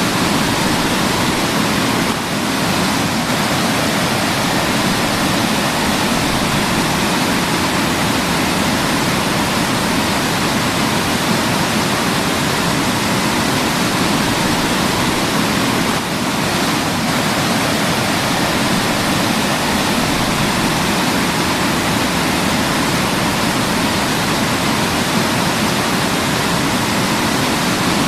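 Waterfall: falling water pouring steadily and evenly, with two very brief slight dips in level, about two seconds in and around the middle.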